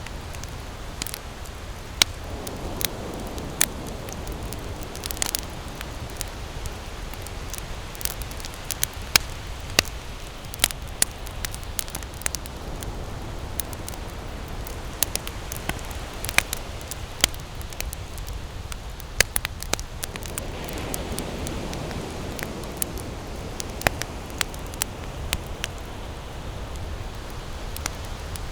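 Wood campfire crackling, with frequent sharp, irregular pops and snaps over a steady low rushing noise that swells twice.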